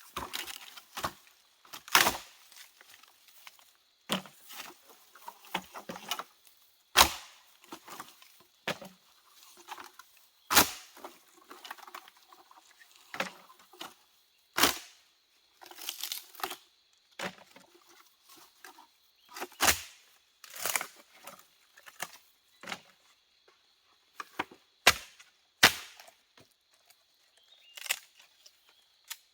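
Sharp knocks and snaps at irregular intervals, about one every second or two, over a faint steady high-pitched tone.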